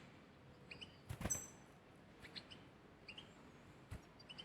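Pet birds giving a few faint, short high chirps, with a slightly louder call and a sharp click about a second in and another click near the end.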